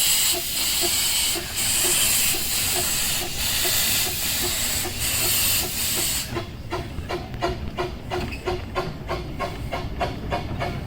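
Miniature-railway steam locomotive letting off steam with a loud hiss that cuts off about six seconds in. A fast, even run of beats follows.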